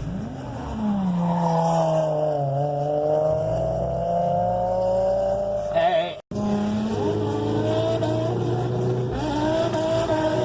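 Drift car engine on a mountain run, revving up and easing off, with tires squealing. The sound cuts out for an instant about six seconds in, then the engine carries on at a steadier pitch.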